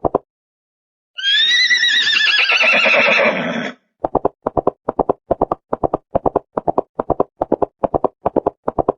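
A horse whinnies once for about two and a half seconds, the call wavering in pitch. Then hooves clip-clop in a steady run of short even beats.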